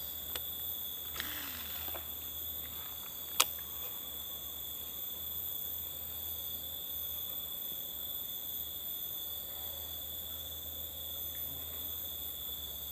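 Forest insects such as crickets chirring in a steady high-pitched drone. A brief swish comes about a second in and a single sharp click about three and a half seconds in.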